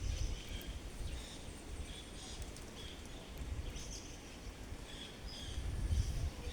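Birds chirping in short scattered calls, over a low uneven rumble of wind on the microphone that swells near the end.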